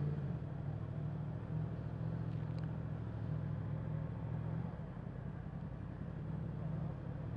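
Yamaha MT-10 SP's crossplane inline-four engine running at low, fairly steady revs, dipping slightly about two-thirds of the way through.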